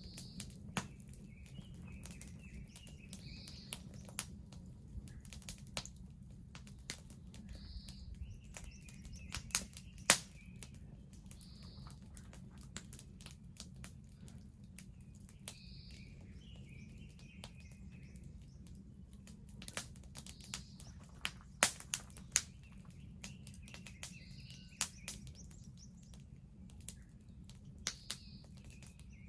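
Wood fire crackling, with irregular sharp pops (the loudest about ten seconds in and again past twenty seconds) over a low steady rumble. A bird sings a short phrase every few seconds: a single high note, then a quick lower warble.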